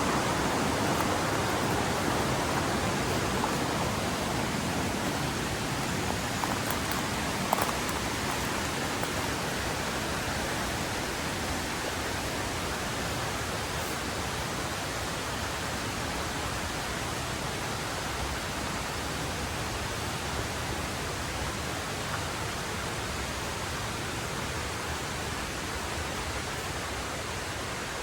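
A mountain river rushing over rocks as a steady roar of water, slowly growing quieter, with a single brief click about seven seconds in.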